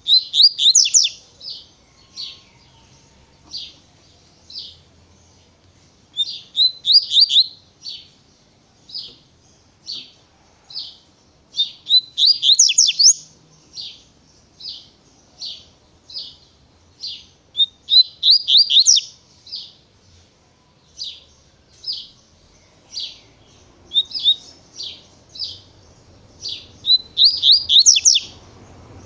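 Double-collared seedeater (coleiro) singing the 'tui tui' song. Its phrases come about every six seconds, each a quick run of sharp notes, with single clear notes about once a second in between.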